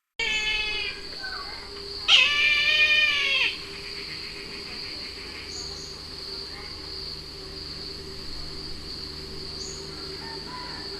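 Brahminy kite calling: a short mewing call right at the start, then a louder, drawn-out wheezy call about two seconds in. A steady high insect buzz runs underneath.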